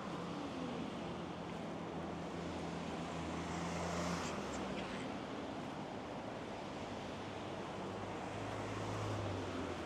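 Steady rushing of river water, with a low hum of passing traffic rising about two seconds in and again near the end.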